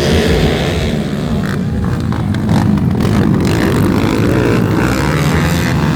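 Dirt-racing motorcycle engines running hard, their pitch rising and falling as the riders work the throttle.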